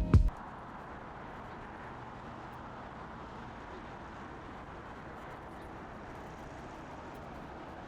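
Music cuts off just after the start, leaving a steady, even rushing noise of outdoor background ambience.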